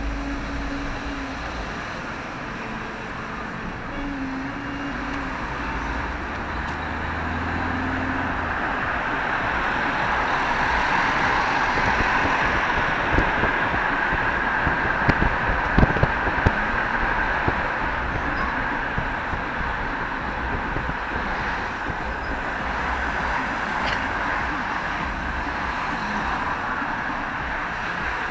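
Steady road-vehicle and traffic noise, with a few short knocks about halfway through.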